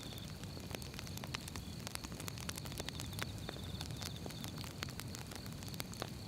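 Firewood burning in an open fire, crackling and popping at irregular moments over a low steady rumble of the flames, with a faint steady high hiss.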